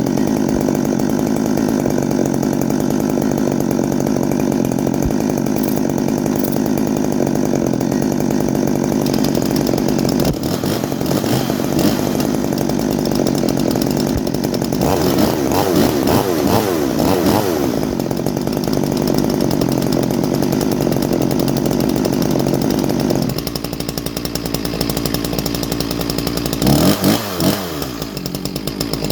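Two-stroke chainsaw running steadily, then revved up and down several times. It settles to a lower note about two-thirds through and is revved again near the end.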